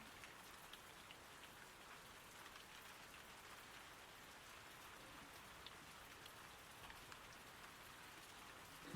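Faint steady rain: an even hiss with scattered small ticks of drops.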